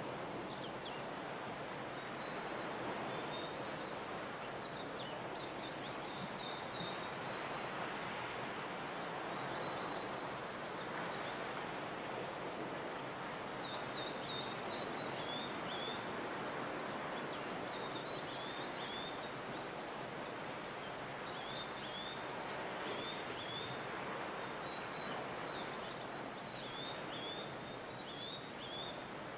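Outdoor nature ambience: a steady even background noise with small birds chirping throughout, in quick runs of short high chirps.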